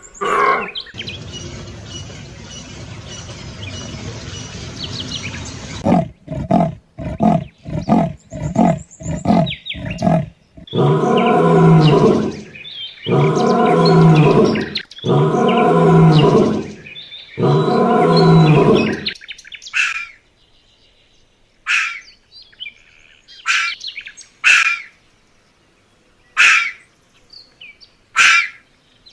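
A run of animal calls: a few seconds of rough noise, then a quick string of short calls, then four long, evenly spaced pitched calls, and finally a series of short, high chirps like bird calls.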